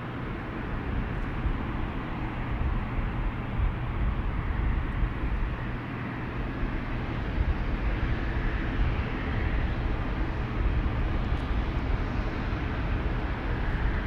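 Aircraft engine noise, a steady rush that swells slightly partway through, with wind buffeting the microphone as a fluttering low rumble.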